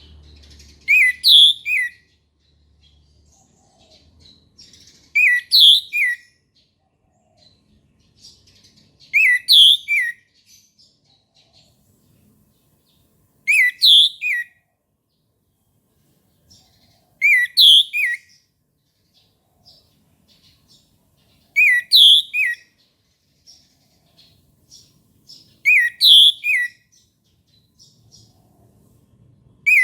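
Orange-headed thrush singing the same short phrase of a few quick sharp notes over and over, about one phrase every four seconds, seven times.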